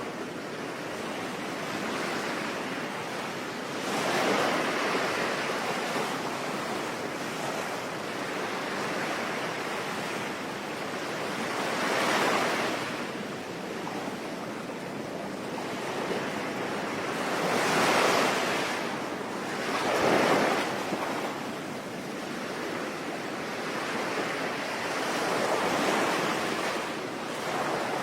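Sea waves breaking and washing in, swelling every few seconds over a steady hiss of rain, with the two strongest surges a little past the middle.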